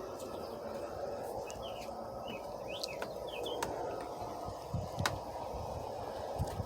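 Several short bird chirps, about one to three seconds in, over a steady background hum, with a couple of sharp clicks later on.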